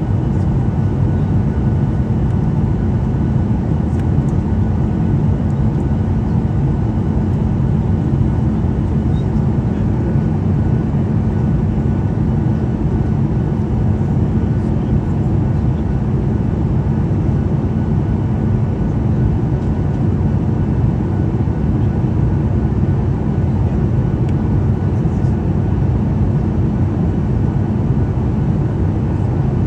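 Steady airliner cabin noise in flight: engine and airflow noise at a constant level, with a steady low hum.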